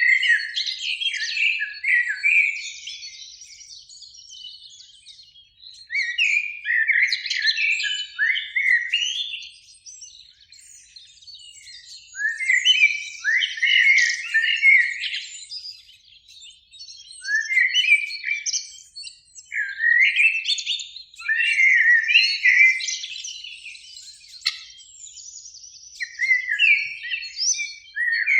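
Eurasian blackbird singing: a run of separate phrases of a few seconds each, with short pauses between them, each made of fluting notes that break into higher twittering.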